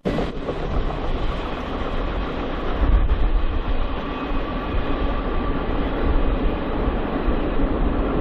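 BNSF freight train rolling past, its steel wheels rumbling and clattering steadily on the rails.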